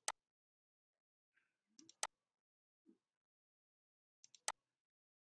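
Computer mouse clicks over near silence: three short, sharp clicks about two seconds apart, each a pair of faint ticks followed by a louder click.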